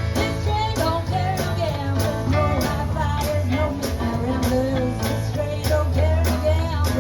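Live band playing an upbeat rock-and-roll song, with electric guitar over bass and a steady drum beat.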